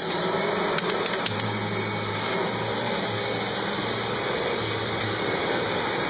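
Kirby G3 upright vacuum cleaner switching on and running steadily as it is pushed through scattered popcorn and dog hair, with a low hum under the motor noise.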